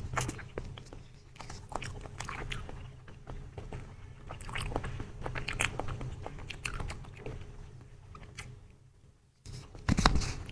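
Close-up mouth sounds of chewing soft brown-sugar bubble milk tea jelly with tapioca pearls, squeezed from a pouch: wet smacks and small clicks. A brief pause, then a louder bite into the jelly near the end.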